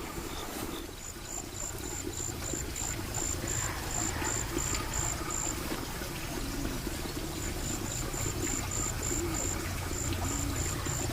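An insect chirping outdoors in short, even pulses, about three a second, with a pause midway before it resumes, over a steady low rumbling background.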